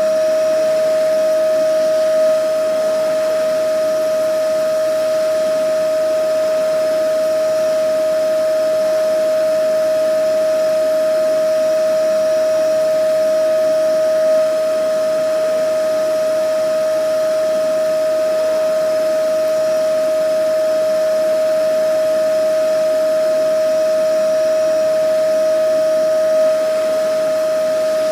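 Vacuum cleaner running steadily: a constant high motor whine over a rushing of air, with a slight bump in level repeating about every twelve seconds.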